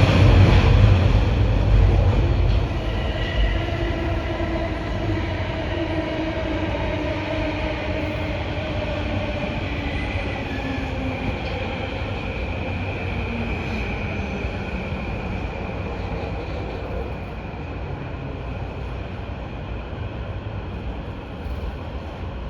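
Sobu Line electric commuter train running on the rails: a steady rumble with drawn-out whining and squealing tones, growing gradually quieter.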